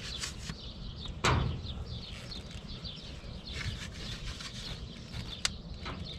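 Access panel of an air-conditioning package unit being opened and handled: one sharp knock about a second in and a lighter click near the end. Birds chirp in the background.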